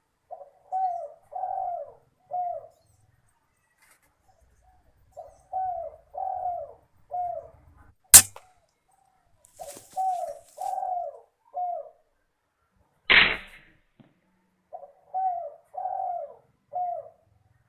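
Spotted dove cooing in repeated phrases of three or four notes, a phrase every four to five seconds. About eight seconds in comes a single sharp air-rifle shot, and about five seconds later a short rustling burst.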